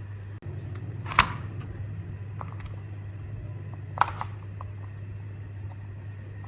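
Two sharp clicks or knocks about three seconds apart, with a few lighter taps, from parts or tools being handled, over a steady low hum.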